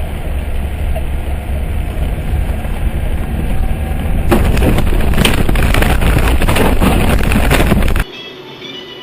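Car on the road heard from inside: a steady low road and engine rumble. About four seconds in it gives way to a louder, harsh rushing noise full of crackles and knocks, which cuts off abruptly about four seconds later.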